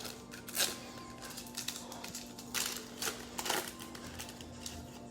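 Foil trading-card pack wrappers crinkling and tearing as packs are ripped open: a string of sharp crackles, loudest about half a second in and again around two and a half to three and a half seconds in.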